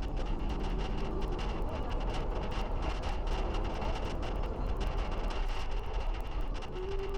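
Steady road and wind rumble from a trailer being towed down the road, picked up by a camera riding on it, with frequent small rattling clicks throughout.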